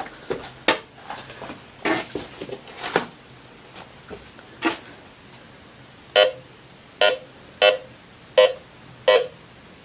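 A few knocks and scrapes of a steel shovel and gear during the first three seconds, then a metal detector sounding five short, low-pitched beeps about two-thirds of a second apart as it is swept over a buried metal target.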